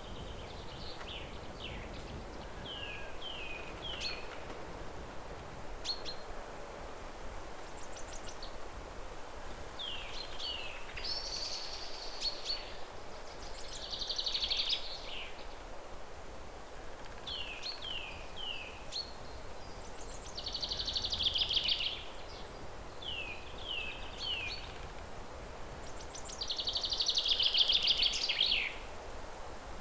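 Songbirds singing: short falling chirps, mostly in quick groups of three, alternating with longer rapid trilled phrases every few seconds, the loudest trill near the end. A steady low outdoor background hiss runs underneath.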